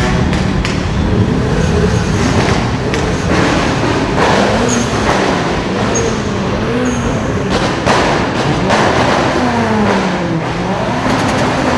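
Modified car engine revving repeatedly, its pitch rising and falling about once a second, over the steady noise of other running engines.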